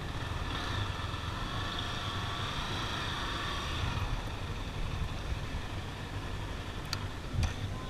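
Vehicle engines running with a steady low rumble. A wavering higher tone sounds through the first half, and two sharp clicks come near the end.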